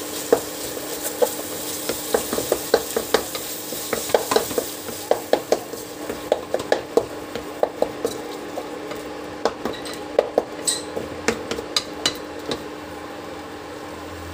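A wooden spatula stirs and scrapes chopped tomatoes and ground spices frying in a nonstick pan: a steady sizzle with irregular clacks and scrapes of the spatula against the pan, and a steady low hum underneath. The sizzle quietens about halfway through, and the clacks thin out near the end.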